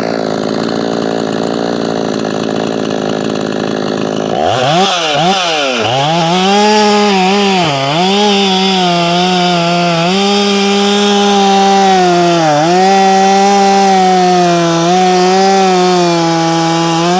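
Ported Efco 165 two-stroke chainsaw running at full throttle. About four seconds in the engine note changes and the saw is under cutting load, its pitch dipping several times as pressure comes on and recovering to hold steady near 12,000 rpm under light pressure.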